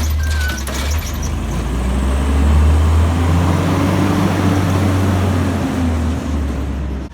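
Recycling truck's diesel engine running and revving up, climbing in pitch and loudness about two seconds in, then holding and easing off near the end.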